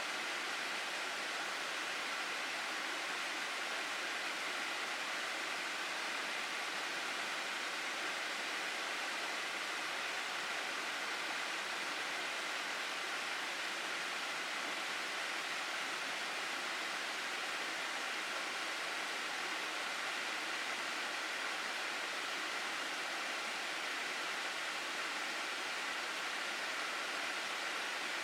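Mountain gorge stream: water rushing steadily, with no change in strength.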